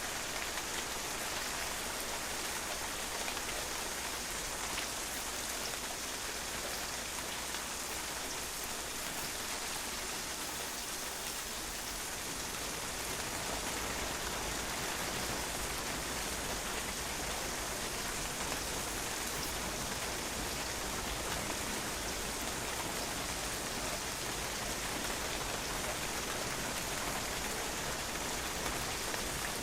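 Steady rain falling on a patio, a continuous hiss of countless drops with faint individual drop ticks.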